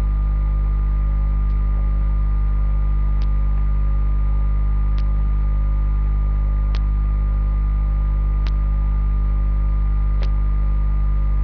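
Loud, steady electrical mains hum with a buzz of overtones, and a faint sharp click repeating about every second and three quarters.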